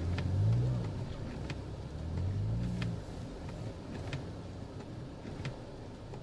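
Jeep Wrangler engine revving in two short rising surges in the first three seconds, then running more evenly, with scattered light ticks over it.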